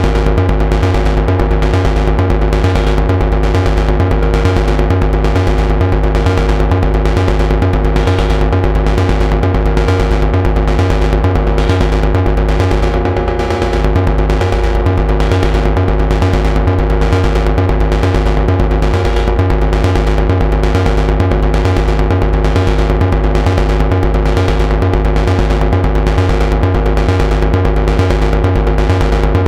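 Moog Subharmonicon analog synthesizer playing a fast, percussive sequenced patch: even, rapid low pulses over steady held tones, dipping briefly about halfway through.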